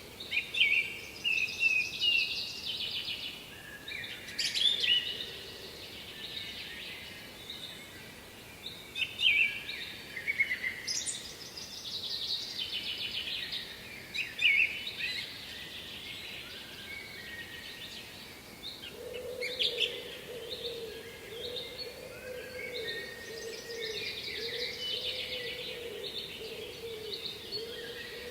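Several small songbirds singing, with quick chirps and trills over a steady background hiss. About two-thirds of the way in, a low wavering hum starts and continues.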